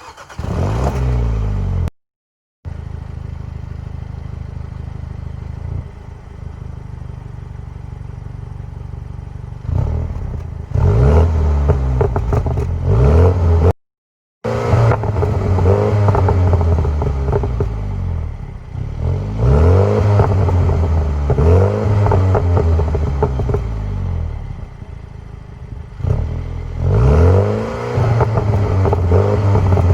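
2020 MINI JCW Countryman's turbocharged 2.0-litre four-cylinder engine and exhaust, heard from outside: a short flare at the start, then a steady idle, then repeated throttle blips that rise and fall in pitch. Each blip ends in the exhaust's burble and pops on the overrun. Two very short silent gaps break the sound.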